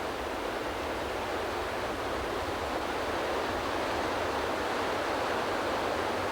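Steady rushing of river water, an even hiss that swells slightly over the few seconds.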